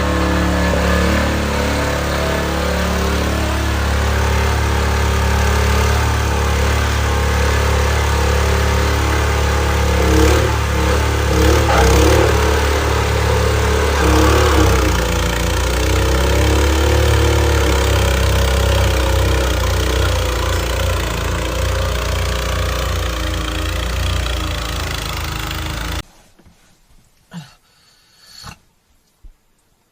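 An engine running loudly and steadily with a deep rumble, its pitch shifting briefly in the middle, then stopping abruptly near the end.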